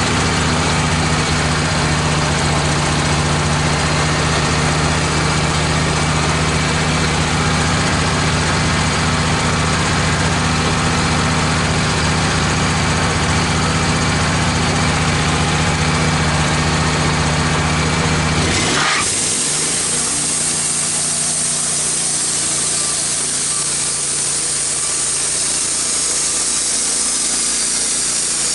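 Wood-Mizer LT15 band sawmill running, its engine a steady hum while sawing red oak. About two-thirds of the way through the sound changes suddenly: the engine's low hum drops away and a high hiss takes over.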